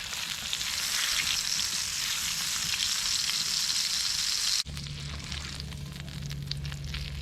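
Steak sizzling as it fries. The sizzle is loud at first, then drops abruptly about two-thirds of the way through to a quieter sizzle with a low steady hum underneath.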